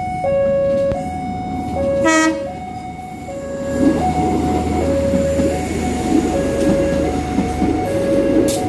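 Level-crossing warning alarm sounding a steady two-tone alternation, switching tone about every 0.7 seconds. A train horn gives one short toot about two seconds in, and from about three and a half seconds the rumble and rattle of a passing train builds up under the alarm.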